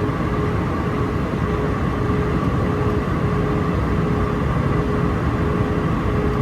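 Steady cabin drone of an Airbus A319-131 on approach, heard inside the cabin: engine and airflow noise from its IAE V2500 engines, with a thin hum running through it that breaks off at regular intervals.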